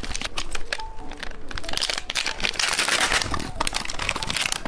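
Plastic candy wrapper crinkling and crackling as it is handled and opened, many quick sharp crackles with a denser stretch in the middle.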